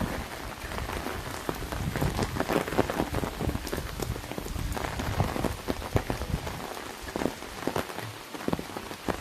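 Rain falling on an umbrella overhead: a dense, irregular patter of drops ticking on the canopy over a steady hiss of rain.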